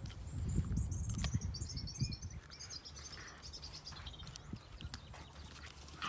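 A small songbird singing a rapid, high twittering phrase lasting about four seconds, its notes stepping slightly downward. Under it runs an uneven low rumble, strongest in the first two seconds, with scattered short clicks.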